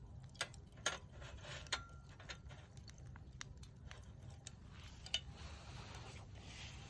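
Irregular small clicks and pops, a few sharper ones, over a low steady rumble.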